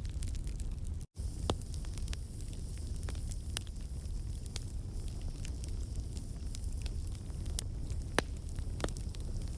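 Wood campfire burning: a steady low rush of flame with scattered sharp pops and crackles from the logs as water and sap in the wood escape as steam. The sound cuts out for an instant about a second in.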